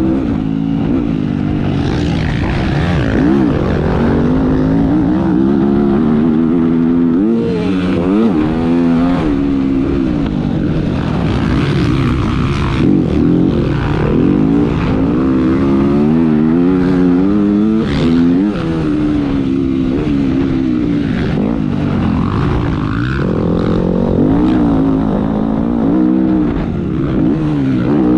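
Motocross dirt bike engine revving up and down as it is ridden hard around the track, its pitch rising and falling with the throttle, heard up close from an onboard camera. A few short sharp noises cut in around the middle.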